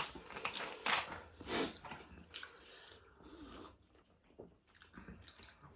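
Close-up eating sounds: chewing and biting with scattered small clicks and breathy snorts.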